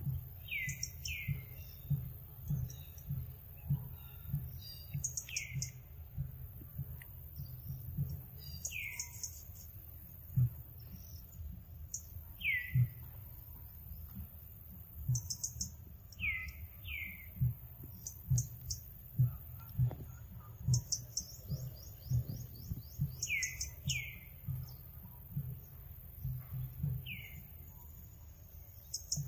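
Forest birds calling: short downward-sliding chirps every few seconds, often in pairs, with quick high trills between them. Under them run soft, irregular low thumps.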